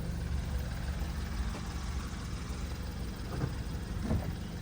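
BMW N20 2.0-litre turbocharged four-cylinder engine idling steadily, a low even hum.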